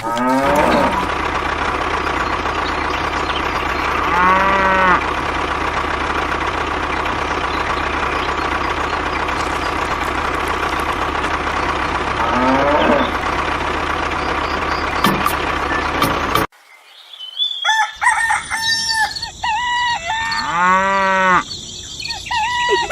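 Farm animal calls, a rooster crowing and cattle mooing, over a steady hum with a high whine. The hum cuts off suddenly about 16 seconds in, and the calls then come thick and fast.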